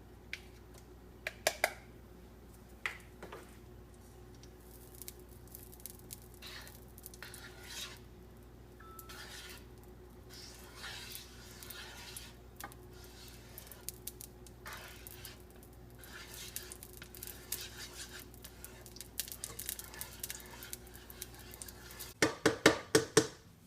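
Metal utensil clinking and scraping in a large cooking pan while ghee melts in it, with scattered light clinks over a faint steady hum. A quick run of about six loud clicks comes near the end.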